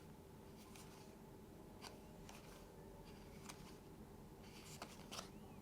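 Near silence with a few faint, scattered light clicks: board game cards being handled.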